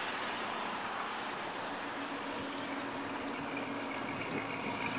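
Dodge Charger's Hemi V8 idling steadily, free of ticks, pings or exhaust leaks: the sound of a healthy engine.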